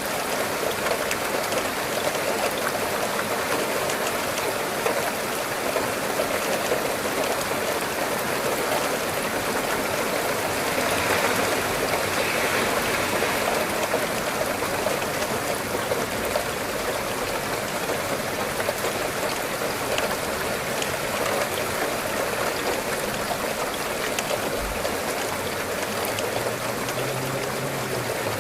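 Steady rain falling, an even dense hiss peppered with the ticks of individual drops, swelling slightly about a third of the way in.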